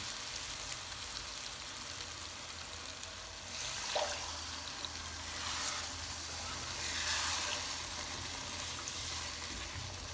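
Chickpeas in masala sizzling in a hot frying pan while a wooden spatula stirs them. Water is poured in, and the sizzling rises and falls in several swells. There is a light knock about four seconds in.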